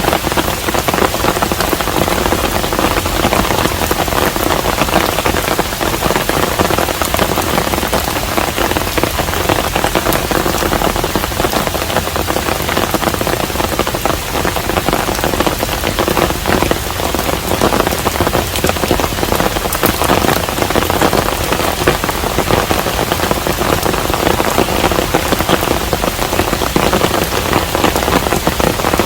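Steady rain falling on a traditional Korean hanok, a continuous even wash with individual close drops ticking through it.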